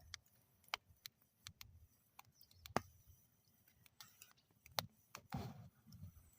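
Wood fire burning in a metal fire bowl, crackling with sparse, irregular sharp pops, the loudest a little before the three-second mark, over a faint low rumble.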